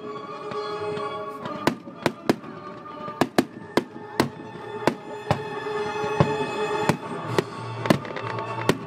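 A fireworks display going off, with about a dozen sharp bangs at irregular intervals over music that plays throughout.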